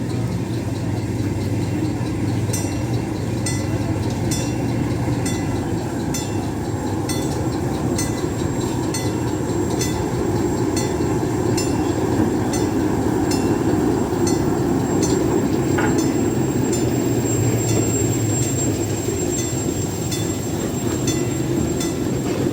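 A train running, a steady low drone with sharp regular clicks about two a second, and a brief higher note about two-thirds of the way through.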